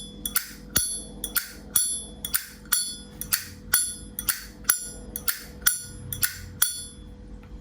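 Vintage Zippo lighter, about 1970 with its original cam, its hinged lid flicked open and snapped shut over and over: a rapid run of sharp metallic clicks, about three a second, each with a bright ring.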